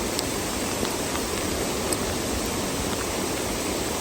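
Steady rush of rain and running storm water during a rain and hail storm, with a few faint ticks of hailstones striking.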